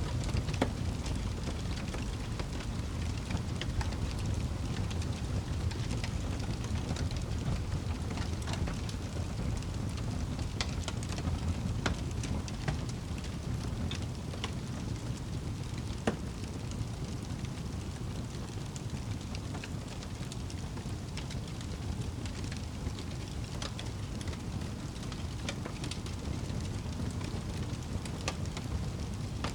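Wood fire burning in a fireplace, crackling steadily with irregular small pops and snaps over a low rumble of the flames. One sharper pop comes about halfway through.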